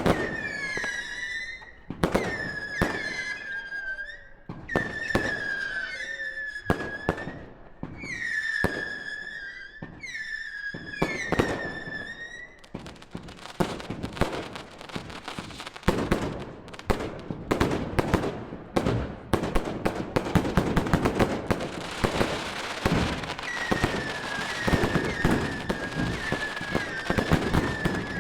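Fireworks going off: a run of sharp bangs, each followed by a high whistling tone. From about thirteen seconds in this gives way to a dense crackle of many rapid pops, and the whistling comes back near the end.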